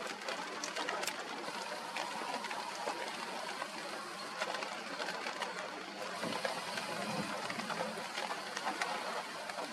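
Steady rain with wind: an even hiss with many small scattered taps of raindrops.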